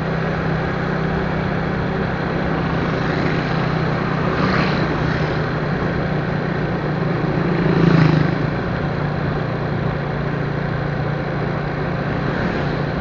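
Steady engine hum and road noise from a moving vehicle, with two brief swells, about four and eight seconds in, like vehicles passing.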